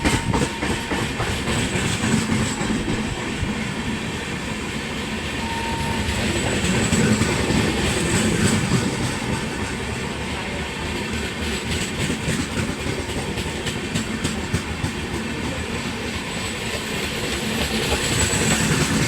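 Passenger train of ICF coaches running past, its wheels clattering steadily over the rail joints. The clatter grows louder about seven seconds in and again near the end.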